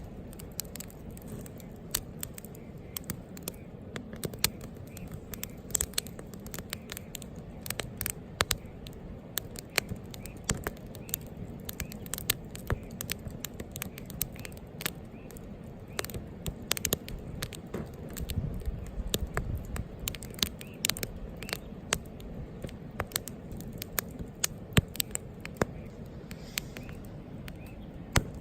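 Wood campfire crackling, with many irregular sharp pops and snaps over a steady low hiss of burning.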